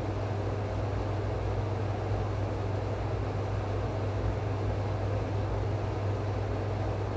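A steady, unchanging low mechanical hum with a noisy hiss over it.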